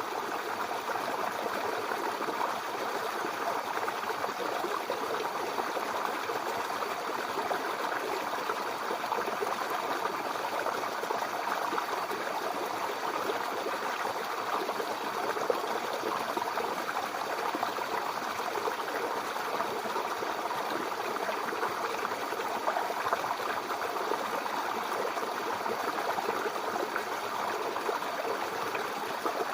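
Mountain river flowing over rocks: a steady rush of water with fine splashing and gurgling, even throughout.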